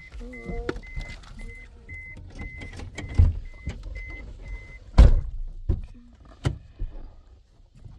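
A short high electronic beep repeating about twice a second, stopping about five seconds in, with a few sharp thumps, the loudest just as the beeping stops.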